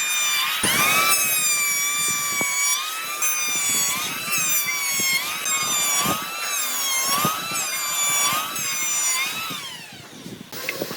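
Power tool motor whining at high speed, its pitch dipping and recovering every second or so as it is pressed into the wood. Near the end it is switched off and winds down.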